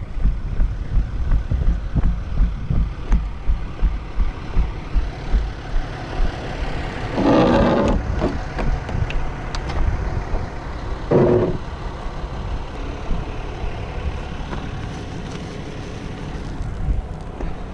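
Road vehicle noise with wind buffeting the microphone in low, uneven pulses, and two louder bursts of noise about seven and eleven seconds in.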